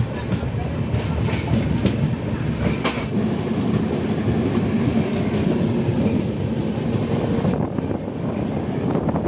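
Express passenger train running on the rails, heard from an open coach door: a steady rumble of wheels on track with the clickety-clack of wheels over rail joints, with several sharp clicks in the first three seconds.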